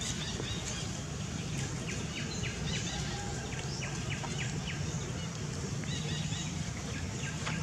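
Outdoor ambience with a steady low rumble, over which a bird gives a quick run of short, high chirps, about four a second, from about two to four seconds in and again briefly around six seconds.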